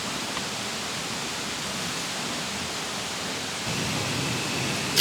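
Mountain valley stream rushing steadily, a little louder and fuller about three and a half seconds in.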